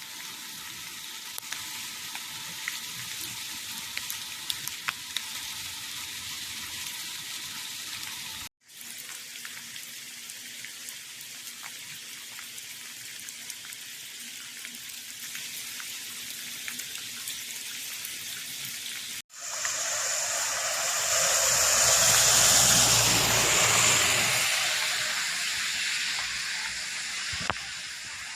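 Steady hiss of rain falling, with scattered small ticks of drops. In the last third a louder rushing noise with a low rumble swells up and slowly fades.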